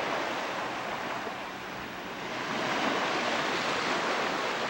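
Surf washing onto a beach, a steady rush of water that ebbs and then swells again about three seconds in.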